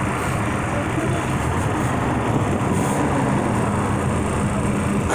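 Motor vehicle engine running steadily, a low even hum under heavy outdoor noise.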